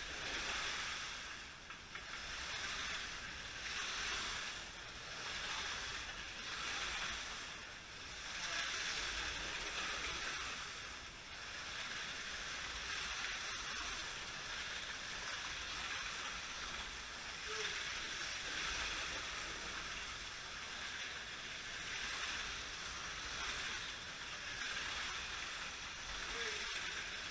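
Slot cars running laps on the track. Their small electric motors give a steady high whine that swells and fades every second or two as the cars go by.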